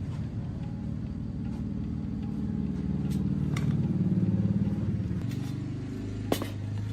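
An engine or motor running steadily with a low hum, growing louder toward the middle and then easing off, with one sharp click near the end.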